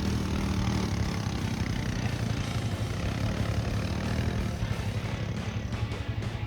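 Small engine of a motorized trike running steadily under load as it climbs a hill, a continuous low drone.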